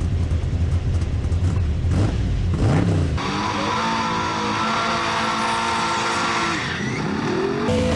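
Drag-racing vehicle's engine: a low rumble for about three seconds, a quick rev, then high rpm held steady for a few seconds with a strong hiss, typical of tire spin. Near the end the revs drop and climb again.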